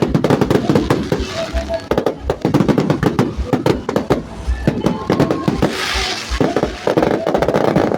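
Fireworks or firecrackers going off in a rapid, dense run of pops and bangs, with music and crowd voices underneath.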